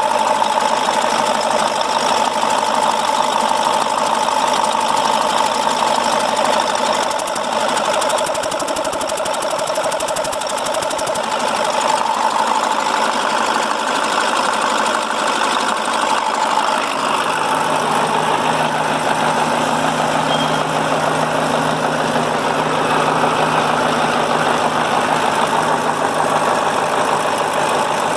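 KAMAZ 740.51-320 Euro-2 V8 turbodiesel engine running steadily. About two-thirds of the way in its tone changes as a lower hum comes in.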